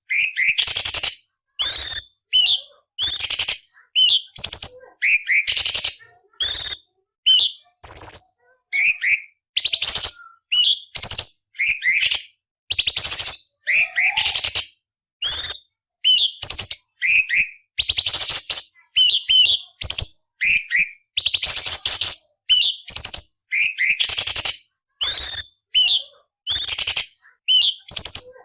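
Orange-bellied leafbird (cucak cungkok) singing a rapid series of short phrases, mixing harsh scratchy rasps with sharp, downward-sweeping whistles. Each phrase lasts under a second, with brief pauses between them.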